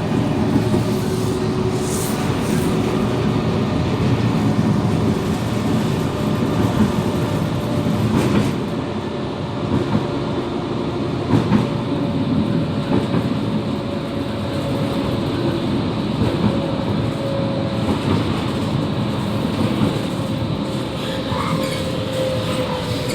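Končar TMK 2200 low-floor tram running, heard from inside the car: a steady rumble of wheels on rail under a thin traction-motor whine, with a few sharp clicks from the track. The whine drops slightly in pitch near the end.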